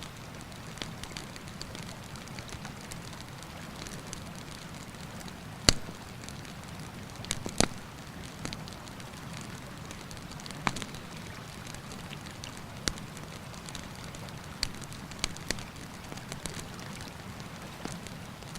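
Campfire crackling, with sharp irregular pops every second or two, the loudest about six and seven and a half seconds in, over the steady low rush of a mountain river.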